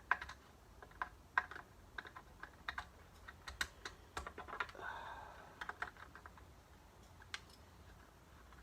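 Faint, irregular light clicks and taps of small parts and tools being handled on a workbench, with a brief soft rustle about five seconds in.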